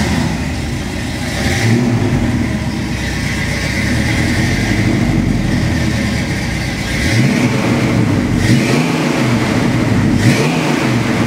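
Ford 289 V8 of a 1966 Mustang, tuned above stock power, running just after starting up. It settles into a steady idle, then is revved in a few quick throttle blips, each rising and falling, in the second half.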